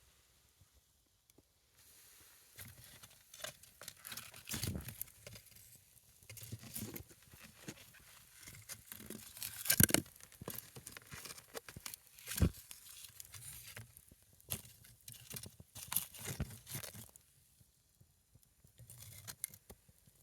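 Small wood fire of a single log crackling, with irregular sharp pops; the loudest pops come about halfway through, and the fire goes quieter near the end.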